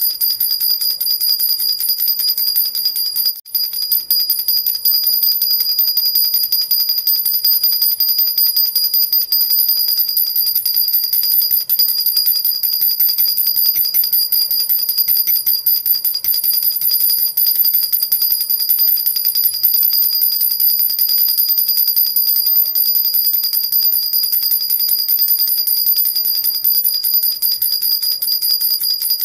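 Jhunjhuna baby rattle shaken without a break: a steady, high jingling of its small bells, with a brief gap about three and a half seconds in.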